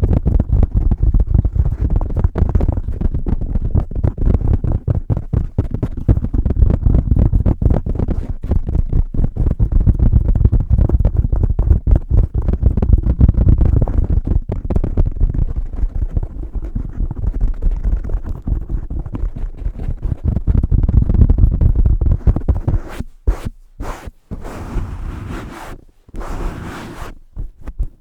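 Fast, rapid tapping and scratching on a fuzzy cover over a Blue Yeti microphone, heard right up against the mic as dense, bass-heavy rubbing and thudding. Near the end the strokes turn sparser and broken.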